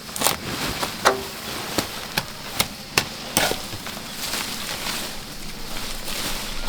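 A series of sharp knocks, about seven in the first three and a half seconds, then a steady hiss.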